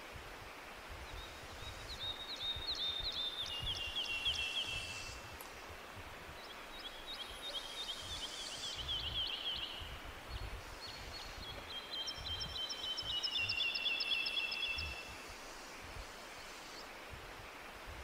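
A songbird singing three phrases a few seconds apart, each a rapid trill of high notes that steps down in pitch, over a faint steady hiss and a low rumble.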